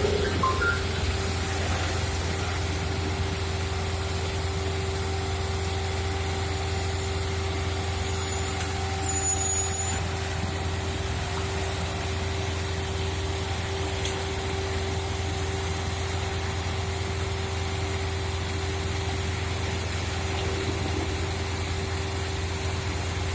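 Heavy diesel road-construction machinery running steadily. It gives a constant low engine drone with a steady hum above it, and a brief hiss about eight seconds in.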